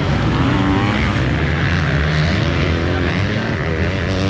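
Motocross bike engines racing, their pitch rising and falling as the riders open and close the throttle.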